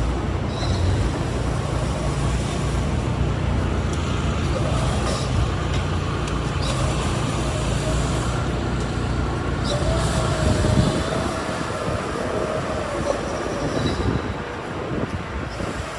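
Steady rumble of a moving vehicle, with a faint thin whine from about eight to twelve seconds in.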